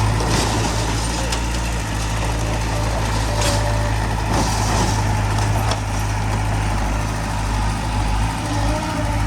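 Heavy diesel earthmoving machinery running steadily with a deep, constant engine hum, broken by a few short hisses about three to five seconds in.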